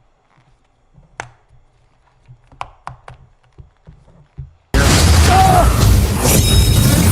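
A few soft scattered knocks and clicks, then about four and a half seconds in a sudden loud crash that carries on as a dense din of smashing and booming, like a film action scene's sound effects.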